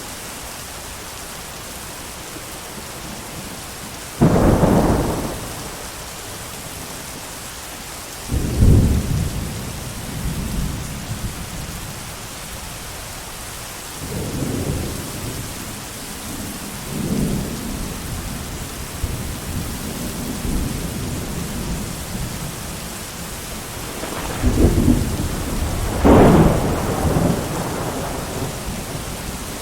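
Steady hiss of heavy rain with thunder rolling over it. Sudden deep claps come about four and about eight seconds in, softer rumbling follows through the middle, and two more loud claps come near the end.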